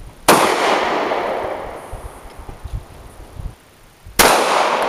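Two gunshots about four seconds apart, each followed by a long echo that dies away over a second or two.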